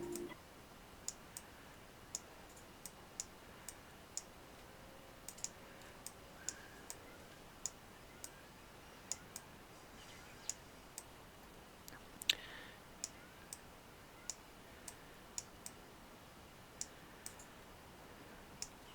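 Faint, sharp clicks at irregular intervals, roughly one or two a second, with one louder click about twelve seconds in, over a quiet steady background hiss.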